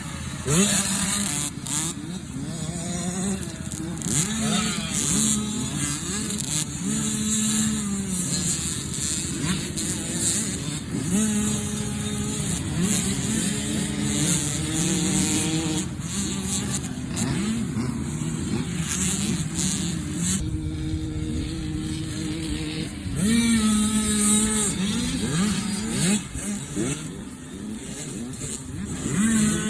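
Motocross dirt bike engines revving hard, their pitch climbing and dropping again and again as they accelerate and shift through the gears, with more than one bike heard at times.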